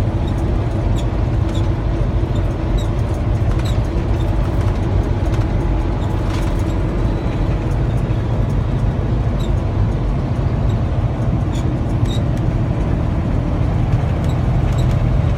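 Semi-truck cruising on the highway, heard inside the cab: a steady low drone of engine and road noise, with a few faint scattered ticks.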